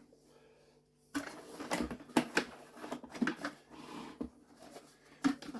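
Hard plastic vacuum-cleaner housing and switch parts being handled and pressed together: a run of clicks, knocks and scraping that starts about a second in.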